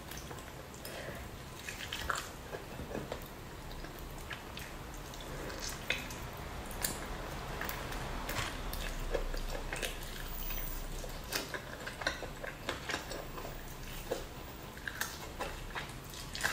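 Close-miked chewing and wet lip-smacking as duck meat is bitten and eaten by hand, with many small sticky clicks of the mouth and fingers.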